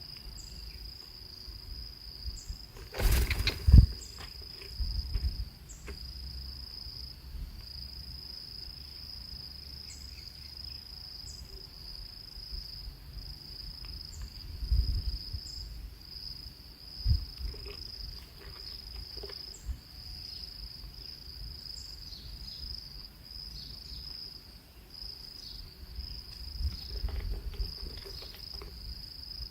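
A steady, high-pitched insect trill that goes on without a break. A few low rumbling thumps come in over it, the loudest about three seconds in.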